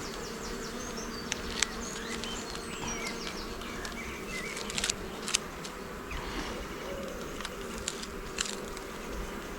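Honey bees buzzing steadily around an open hive during a frame inspection, with a few sharp clicks.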